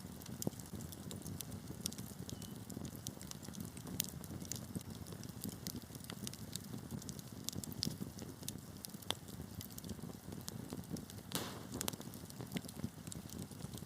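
Wood fire burning in a fireplace: frequent sharp crackles and pops of burning logs over a low, steady rumble of flames.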